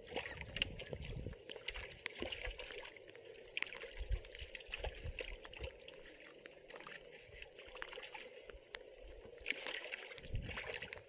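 Water trickling and splashing, with many scattered drips and small splashes, busier in the first couple of seconds and again near the end.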